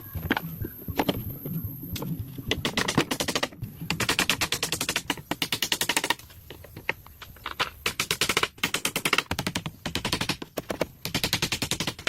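Rapid runs of sharp knocks, about ten a second, each run lasting a second or two with short pauses between.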